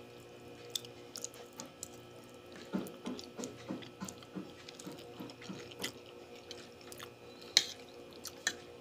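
A person chewing a mouthful of spaghetti carbonara close to the microphone: soft, wet mouth sounds, at times about three a second, with a few sharp clicks.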